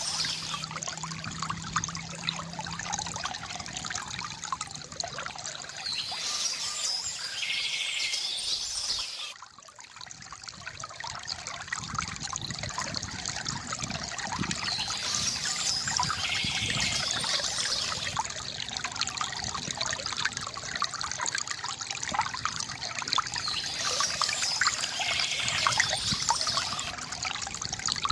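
Water trickling and splashing from a bamboo fountain, with birds chirping in the background. The water briefly drops away about a third of the way in, then resumes.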